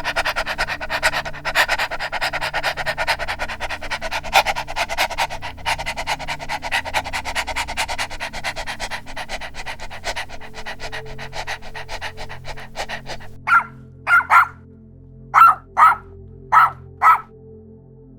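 Dogs barking and yapping thick and fast, many barks overlapping. Near the end a single dog gives about seven sharp barks, mostly in pairs.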